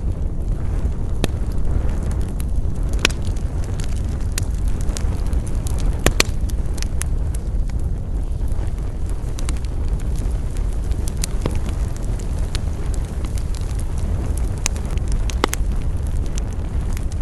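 Wood campfire burning: a steady low rush of flames with frequent irregular crackles and sharp pops from the burning wood, the loudest pops about six seconds in and again near the end.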